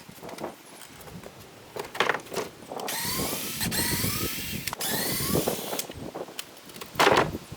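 Power drill running in two bursts of a second or more each, its whine rising in pitch as it spins up, while screws are taken out of a wooden cabin. Knocks of wood come before it and a loud knock near the end.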